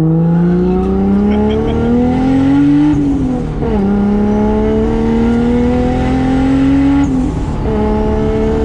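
Single-turbo 2JZ straight-six in a 1995 Toyota Soarer accelerating hard, its note climbing, dropping at an upshift about three seconds in, then climbing again. Its pitch falls again about seven seconds in and then holds steady.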